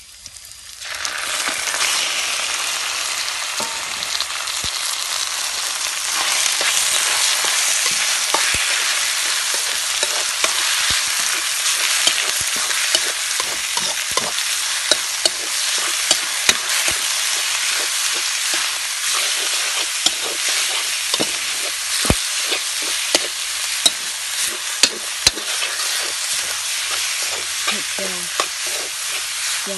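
Chopped chicken going into hot oil in a steel wok with fried garlic and shallots: the sizzling jumps up sharply about a second in and keeps on loudly. A metal spoon stirs and scrapes the wok, making frequent sharp clicks.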